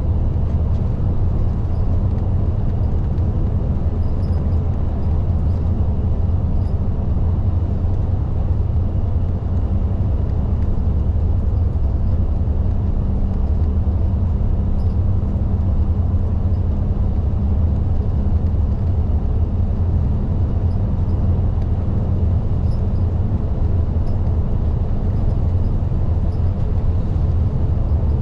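Isuzu Erga city bus under way, heard from inside the cabin: a steady low drone of engine and road noise with no change in pace.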